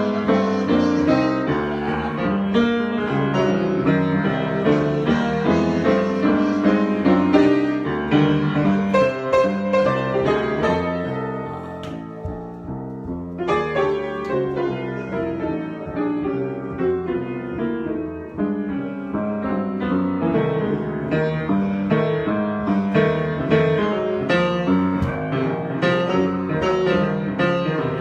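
Solo piano playing a continuous improvisation, dense with notes, thinning out and softening briefly about halfway through before picking up again.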